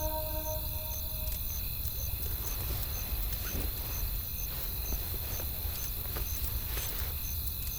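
Wood fire crackling with scattered irregular pops over a steady low rumble of wind, with a faint high tick repeating about twice a second. A held music note fades out in the first half second.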